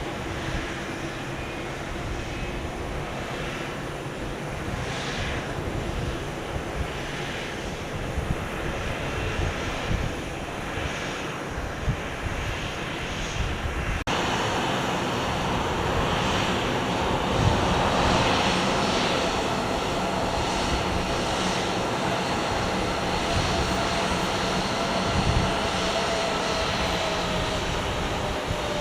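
Jet airliner engines running, a steady rushing noise that gets louder after a cut about halfway through, with a faint whine that slowly drops in pitch.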